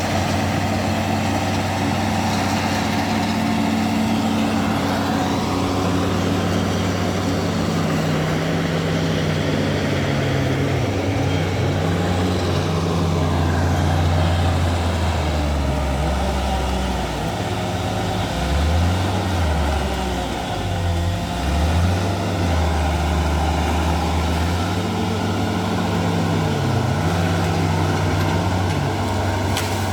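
A bulldozer's diesel engine running steadily, its revs dipping and rising again several times around the middle.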